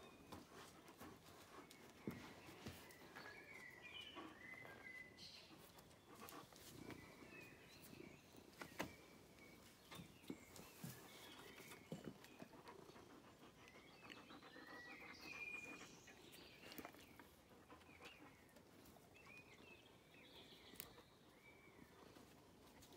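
Near silence with faint birdsong: scattered short chirps and twitters, and a few soft clicks.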